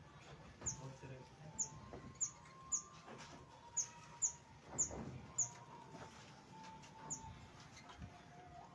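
Small aviary birds chirping: about nine short, high, downward-slurred chirps at irregular intervals.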